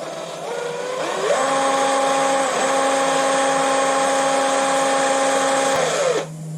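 Power drill spinning an engine valve against 1000-grit sandpaper to polish it. The motor runs up about a second in, holds a steady whine over the hiss of the paper, and winds down near the end.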